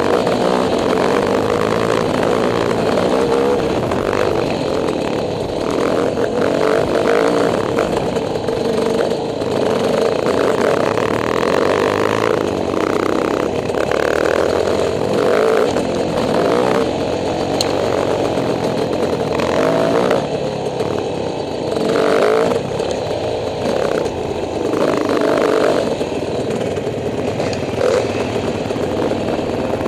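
Dirt bike engine running as the bike is ridden, its note rising and falling with the throttle.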